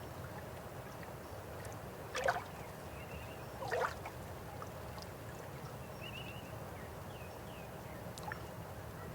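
A river flowing with a steady low rush, with two louder splashing gurgles about two and four seconds in.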